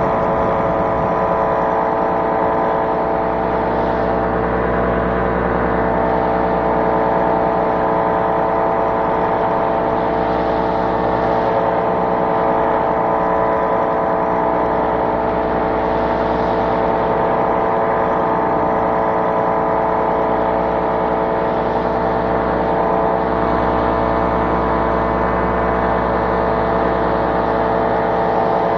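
Small aircraft engine running at a steady, constant speed, its pitch not changing.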